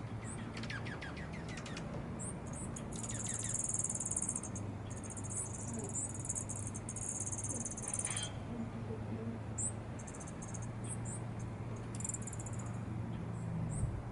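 Very high, thin buzzy trills that repeat on and off, with a few short chirps, over a low steady hum.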